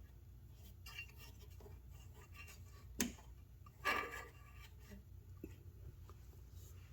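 Small clicks and scrapes of hands and metal parts working at a lawn mower's carburetor housing, trying to pull it free. There is a sharp click about three seconds in and a short scraping clatter about a second later; the housing is stuck.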